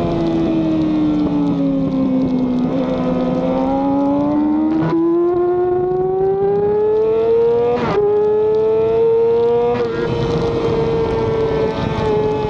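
Onboard sound of a racing motorcycle engine at speed. The revs fall for a couple of seconds as the bike slows, then climb again under acceleration, with short clicks of gear changes about five and eight seconds in, and settle near the end. Wind rush runs underneath.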